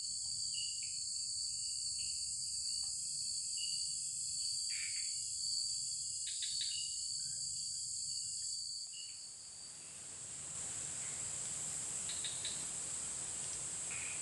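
Night insect chorus of crickets: a steady high-pitched drone with short chirps repeating every second or so. About nine seconds in, the lower chirping and steady tone drop out and an even hiss takes over beneath the drone.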